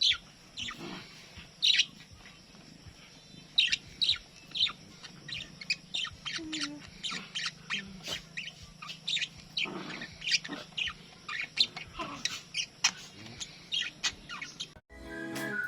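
Pet budgerigars chirping, many quick high chirps in an irregular run. About a second before the end, guitar music starts.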